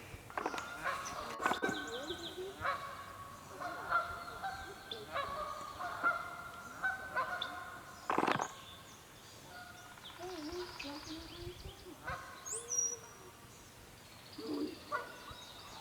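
Canada geese honking repeatedly in short calls, with small birds chirping. A sharp thump about eight seconds in.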